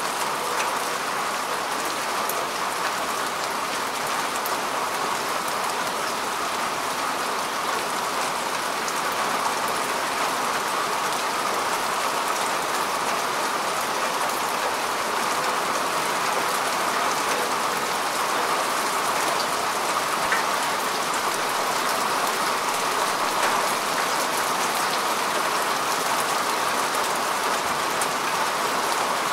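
Steady rain falling on grass and soil: an even hiss of many drops, with small individual drop ticks scattered through it.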